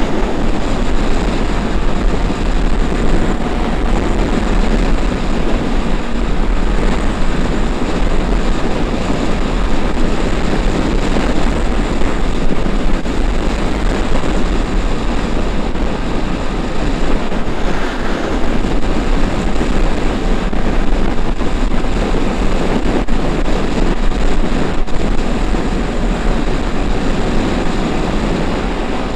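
Strong wind buffeting the microphone on a Honda XRE 300 Adventure motorcycle at steady highway speed, with the bike's engine and road noise running beneath.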